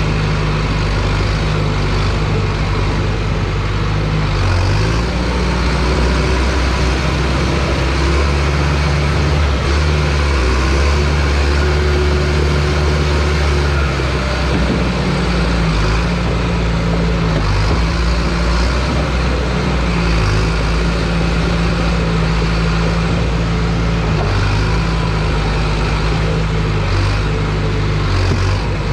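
Bulldozer's diesel engine running steadily under work, its engine note stepping up and down every few seconds as the load changes.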